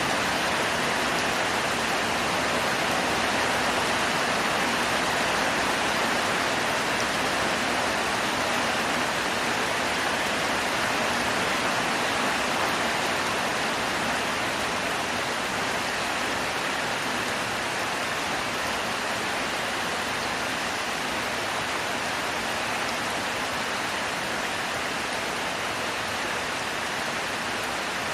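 Heavy tropical rain falling steadily, a dense even hiss of downpour.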